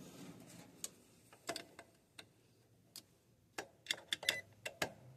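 Light, irregular clicks and taps, about eight in all, from handling a multimeter and its test probes at an electrical breaker while checking for voltage.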